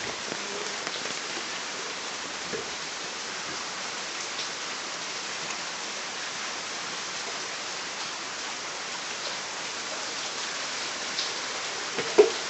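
Steady rain falling and pattering on surfaces, an even hiss. About twelve seconds in there is one brief, loud sound.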